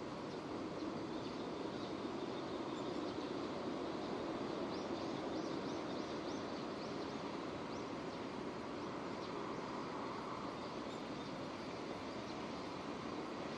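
Steady rainfall, an even hiss. Partway through, a bird chirps a quick run of short calls over it.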